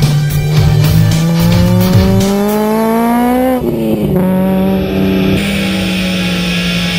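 Rally car engine pulling hard, its pitch rising steadily through a gear, dropping sharply at a gear change about three and a half seconds in, then rising again and holding steady, with rock music over it.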